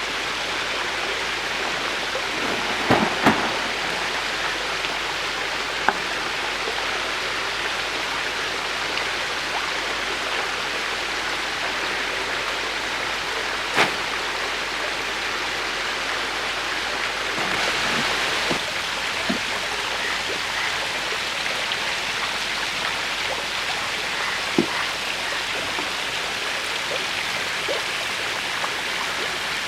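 Water in a hybrid magur catfish tank churned by feeding fish: steady splashing, with a few sharper slaps, two of them together about three seconds in.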